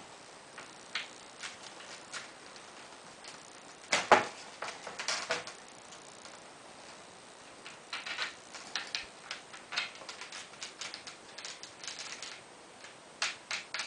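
Hand assembly of a solar panel kit's frame: scattered clicks and taps as parts are handled and fitted together, with one louder knock about four seconds in and a run of quicker clicks in the second half.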